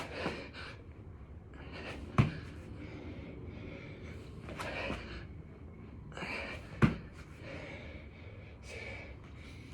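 Hard, heavy breathing of a man mid-way through a set of six-count burpees, one rush of breath after another. Two sharp thuds, about two seconds in and near seven seconds, are the loudest sounds.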